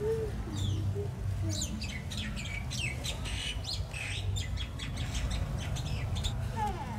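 Birds chirping and squawking, with many quick high calls crowded together in the first half, over a steady low rumble.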